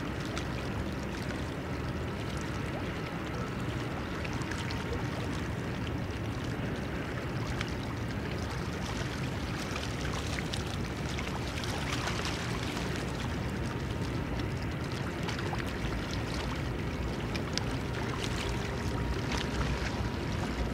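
Steady, even rumble of a freight train hauled by a DB Class 189 electric locomotive running along the far bank of the Rhine, heard from across the river, with light scattered clicks.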